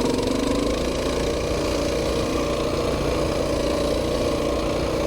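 Coleman BT200X mini bike's small single-cylinder four-stroke engine running at a steady, even throttle while the bike rides along.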